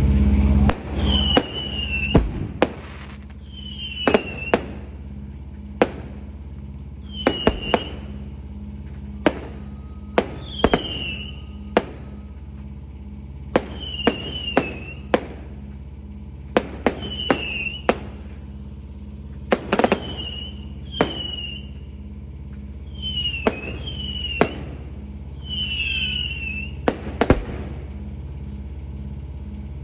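Fireworks bursting: sharp bangs every second or two, often in pairs, each followed by a short falling whistle-like tone. A steady low hum runs underneath.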